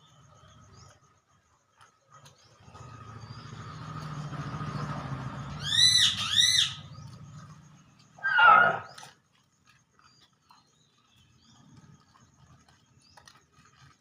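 A dog growling low for several seconds, getting louder, with two short high yelps over it, then a single loud bark.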